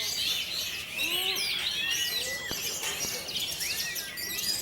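A chorus of many caged songbirds singing over one another: dense, overlapping whistles, chirps and gliding notes with no pause.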